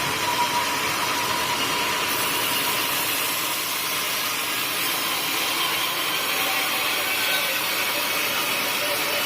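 Sawmill machinery running with a steady mechanical noise, ahead of sawing into a teak stump.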